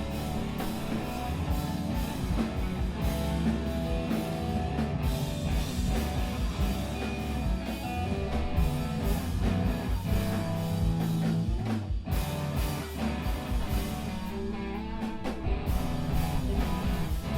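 A live screamo band playing: electric guitars, bass and drum kit with steady cymbal crashes, a brief break about two-thirds of the way through. Near the end the drums stop and the guitar chords ring on.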